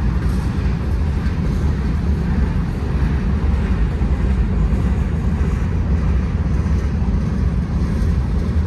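Long freight train's cars rolling past: a steady rumble of steel wheels on the rails.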